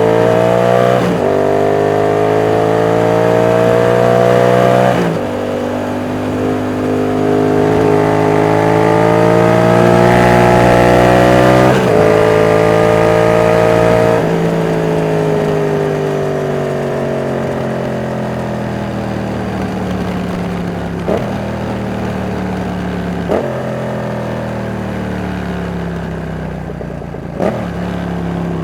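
Yamaha MT-07's 689 cc CP2 parallel-twin engine pulling hard through the gears: its pitch climbs, breaks briefly at each of three upshifts, then falls steadily as the throttle closes. Three short blips come near the end as it slows, typical of downshifts.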